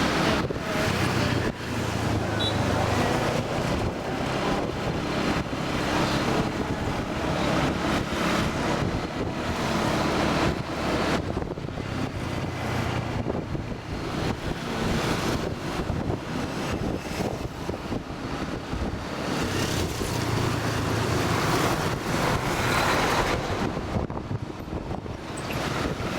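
Motor scooter running along the road, its engine a steady low hum under rushing wind buffeting the microphone, with surrounding traffic noise.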